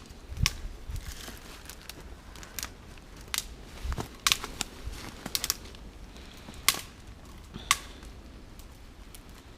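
Dry twigs snapped off a tree by hand: about a dozen sharp cracks at uneven intervals, the loudest a little past halfway.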